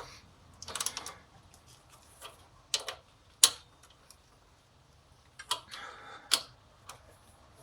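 Hand ratchet clicking in a few short, scattered runs of sharp ticks while the engine mount bolts are tightened.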